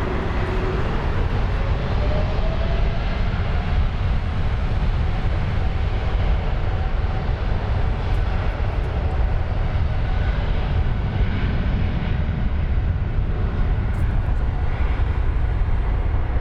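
Boeing 747 jet engines at takeoff thrust: a loud, steady rumble heavy in the low end, with a faint whine rising over the first few seconds.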